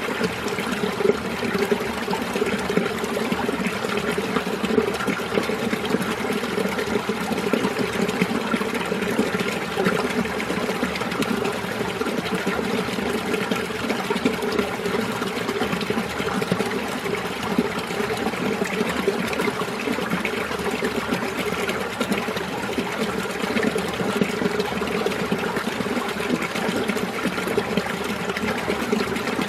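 Mountain stream water running steadily over rocks, a continuous even wash of flowing water with no breaks.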